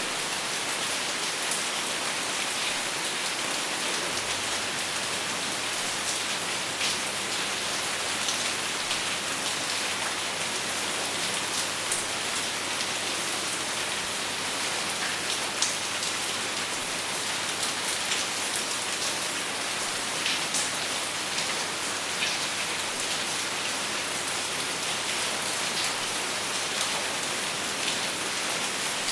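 Steady rain falling on a surface, an even hiss with scattered individual drop ticks, no thunder.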